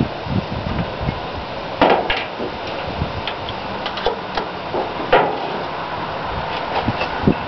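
A few sharp knocks and clatters as paint cans and mixing gear are handled, over a steady noise of wind and passing traffic.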